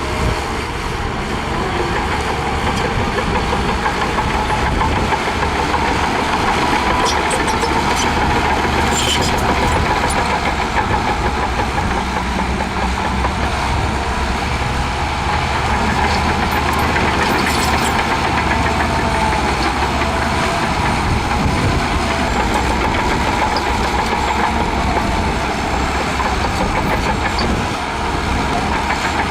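Shantui DH17C2 bulldozer's diesel engine running steadily while working, with a few faint metallic clicks.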